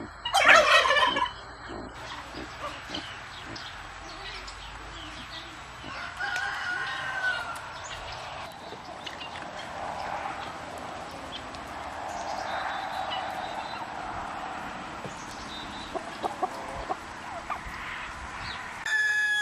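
Domestic turkeys calling: one loud gobble about half a second in, followed by softer scattered calls and clucks from the flock.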